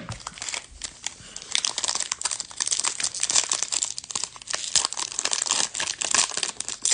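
Plastic foil trading-card pack wrapper being torn open and crinkled by hand: a dense run of crackles, busiest from about a second and a half in.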